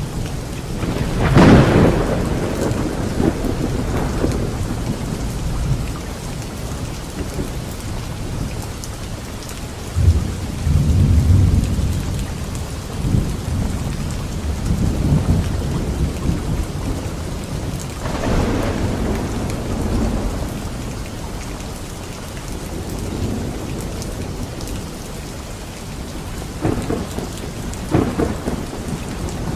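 Thunderstorm: steady rain with rolling thunder. A sharp crack of thunder about one and a half seconds in is the loudest moment, with deeper rumbles about ten seconds in, again near eighteen seconds, and near the end.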